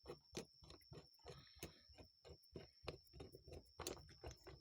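Faint, irregular small clicks and taps of screws and a screwdriver being handled and worked into a carburetor, several a second.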